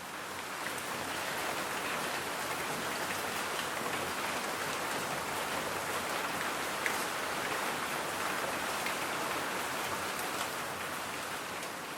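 Steady rain falling and pattering on a surface, an even hiss with scattered drops ticking.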